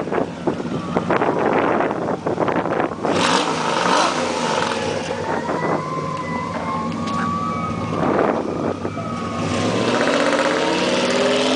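Dodge Ram 1500's straight-piped Hemi V8 exhaust, revving loud and rough at first, then running with its pitch slowly rising and falling, and dropping near the end.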